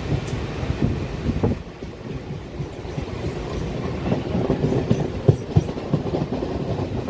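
Electric local train running at speed, heard from inside the coach: a steady low rumble with an irregular run of wheel knocks over the rail joints, thicker in the second half.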